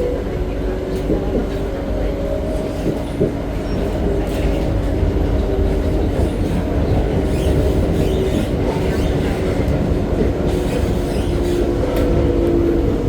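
Interior running noise of an SMRT C151B metro train in motion: a steady low rumble of wheels on rail with several steady motor tones, and a few clacks over rail joints.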